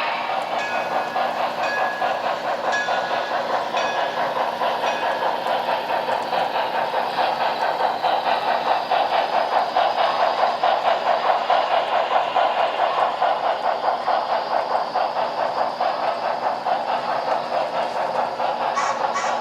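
HO scale model steam train running along the track, a fast, even clatter that carries on steadily.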